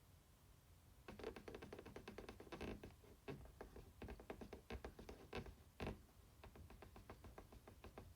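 Rapid, scratchy rubbing strokes of the PlayStation logo on the PS4 Slim's plastic case being polished. They start about a second in and turn fainter after about six seconds.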